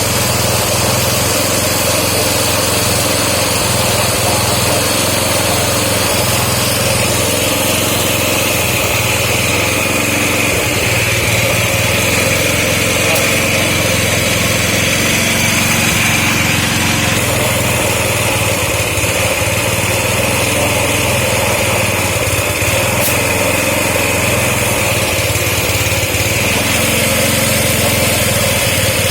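A small engine running steadily without a break, with a high whine that comes in after several seconds and holds.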